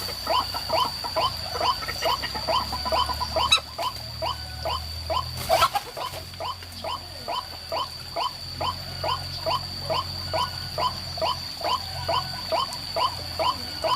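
White-breasted waterhen (ruak-ruak) calling: short notes repeated at an even pace of about two and a half a second, with a steady thin high whine behind them.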